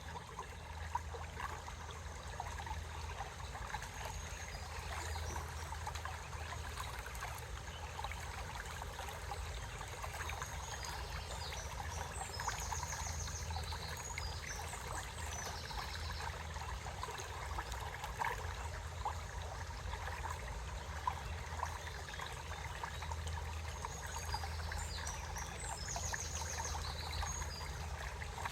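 Small stream trickling steadily, with a songbird singing short, high trilled phrases now and then, about a quarter of the way in, near the middle and near the end.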